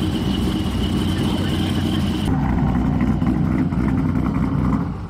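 Engine of an LS-swapped, ProCharger-supercharged V8 pickup truck running steadily. A steady high whine sits over it for about the first two seconds.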